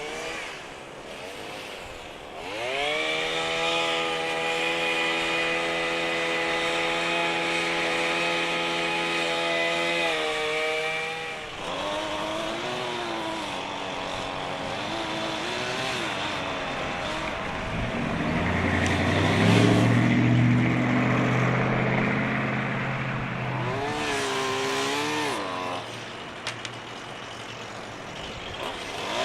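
Gasoline chainsaw cutting back hedges and small trees: it revs up to full throttle a few seconds in and holds there for about eight seconds, then drops back and runs at varying speed, with another brief rev later. A lower-pitched engine runs loudly for a few seconds in the middle.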